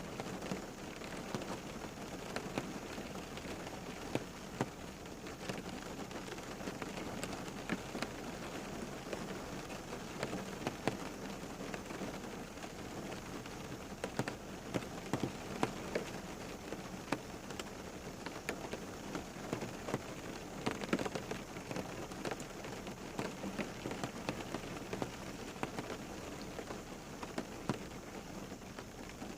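Steady rain falling, with many separate drops ticking sharply on a surface throughout.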